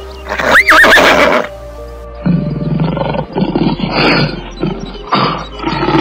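A horse whinnying once, loud, with a quavering pitch, about half a second in, over background music. A lower, rough sound follows from about two seconds in.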